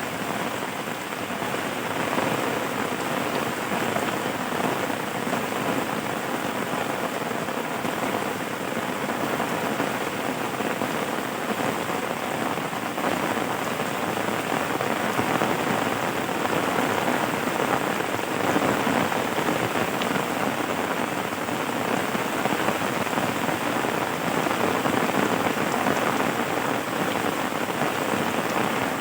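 Steady rain falling and pattering on a surface, an even, unbroken hiss of many small drops.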